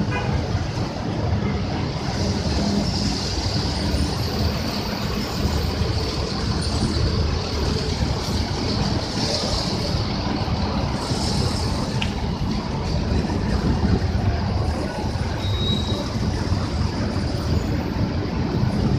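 City buses' engines running and moving past a busway stop, a steady low rumble with a hiss above it and the wash of traffic.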